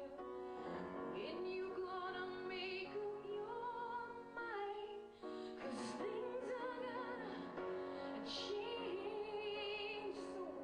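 Music: a woman singing long held notes with wide vibrato over an instrumental accompaniment.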